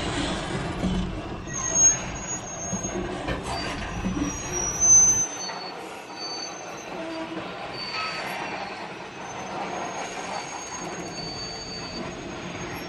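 Freight train of coal hopper cars rolling past a railroad crossing: a steady rumble of cars with high-pitched squeals from the wheels on the rails and two louder bangs, about two and five seconds in. After about five seconds the deep rumble falls away, leaving a thinner rolling sound and the squeals.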